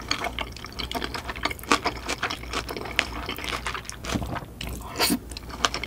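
Close-miked wet chewing of a mouthful of rice and curry: a rapid, irregular run of small sticky mouth clicks and smacks.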